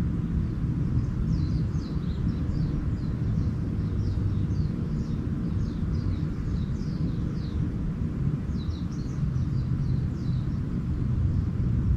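Small birds calling in runs of short, quick, falling chirps, over a steady low rumble like a distant engine.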